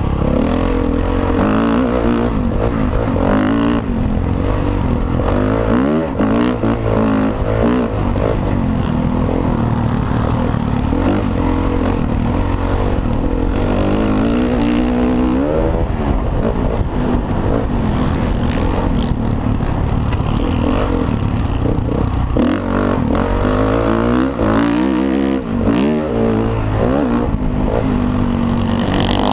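Motocross dirt bike engine revving hard under race load, its pitch climbing and dropping again and again as it accelerates and shifts, over a continuous low rumble.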